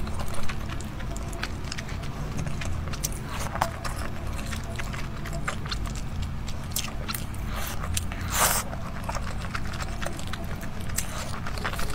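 Close-up chewing and wet mouth sounds of someone eating wontons in red chili sauce: many small smacks and clicks, with one longer, louder wet sound about eight and a half seconds in. A steady low hum runs underneath.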